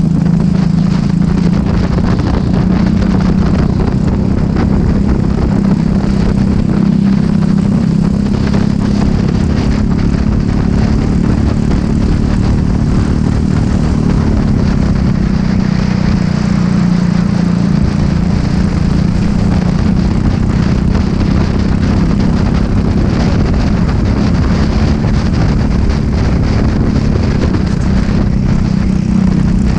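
Racing kart's small single-cylinder engine running hard on track, its pitch rising and falling with throttle, dipping and climbing again about halfway through.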